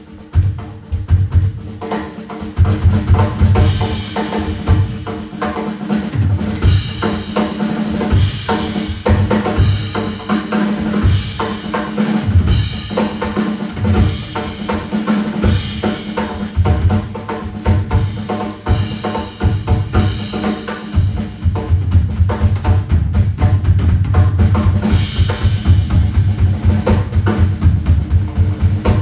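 Live drum kit solo: rapid bass drum and snare strokes in dense runs, with a steady low note held underneath.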